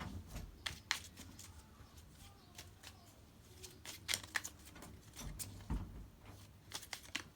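Tarot cards being handled and drawn: faint, irregular light clicks and taps of card stock, about a dozen over several seconds.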